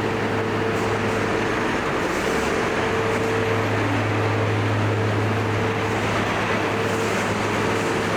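A steady mechanical hum in the street: a constant low drone, a fainter higher tone that comes and goes, and an even wash of noise.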